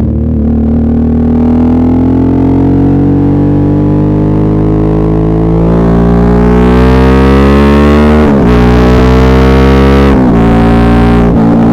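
Suzuki V-Strom 650's V-twin engine accelerating, its revs climbing steadily for about eight seconds. Then come two quick upshifts about two seconds apart, each dropping the pitch before it rises again.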